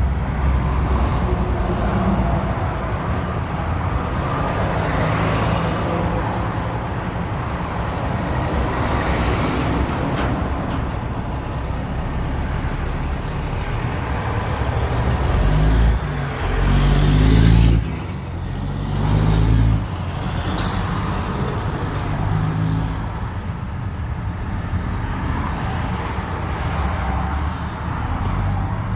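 Road traffic: a steady engine and tyre rumble with vehicles passing one after another. A louder, deeper rumble swells from about halfway through for a few seconds, as of a heavy vehicle going by.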